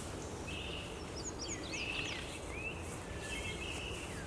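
Wild birds calling and singing: scattered high chirps, short trills and quick down-slurred whistles, over a steady low outdoor background rumble.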